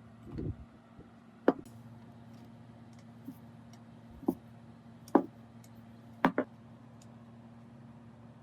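A handful of separate sharp clicks and knocks of metal parts and tools being handled, over a faint steady hum.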